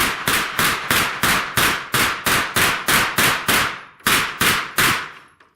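A rapid string of semi-automatic gunshots, about three to four a second, with a brief pause just before four seconds in, then four more quick shots, the last about five seconds in.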